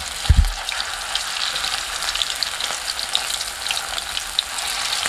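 Chicken kofta meatballs deep-frying in hot oil in a kadai: a steady sizzle with many small crackling pops. A single low thump comes about a third of a second in.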